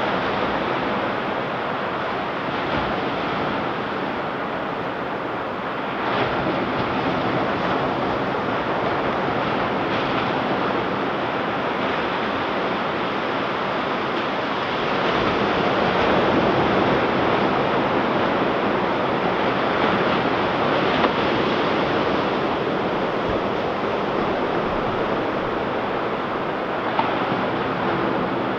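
Ocean surf washing onto a beach in a steady wash of noise, swelling as a wave breaks about halfway through, with wind buffeting the microphone.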